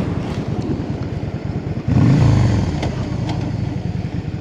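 Motorcycle engine running on the move, with wind and road noise. About two seconds in it gets louder and the pitch rises and falls once as the engine revs.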